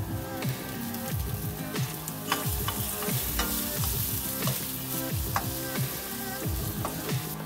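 Onion, garlic and bacon sizzling in olive oil and butter in a nonstick frying pan, stirred with a wooden spoon, with frequent sharp clicks and scrapes of the spoon against the pan.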